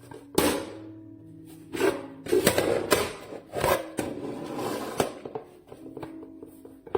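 Hard plastic food-storage containers and lids being handled, giving irregular clicks and knocks, over soft background music with held tones.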